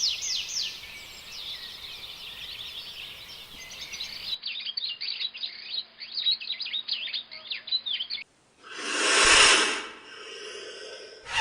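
Birds chirping and twittering in quick, repeated high calls, in two spliced stretches. About eight seconds in, the birds stop abruptly and a loud rushing noise swells up and fades away.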